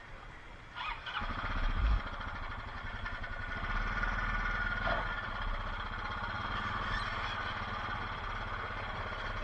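An engine running steadily with a fast, even low pulse, setting in about a second in.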